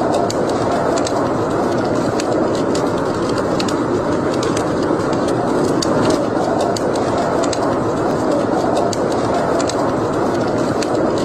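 Wood fire burning in a fireplace: a steady rushing sound with irregular sharp crackles and pops from the burning logs.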